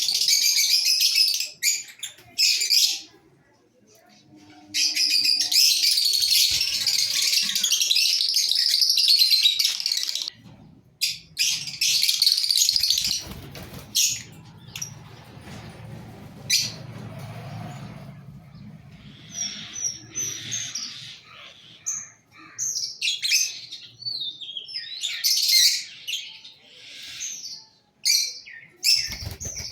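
Fisher's lovebird chattering in shrill, high-pitched bursts: a long, loud run of chatter in the first third, then shorter broken chirps toward the end.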